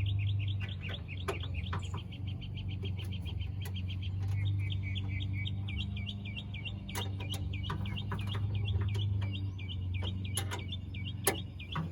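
A bird singing a fast, continuous run of repeated chirps, with a short break about four seconds in. A few sharp clicks and a steady low hum sit underneath.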